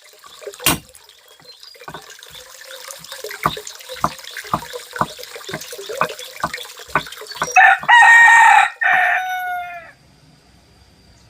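A run of sharp knocks, about two a second, then a rooster crowing once near the end: one long crow with a brief break, dropping in pitch as it ends.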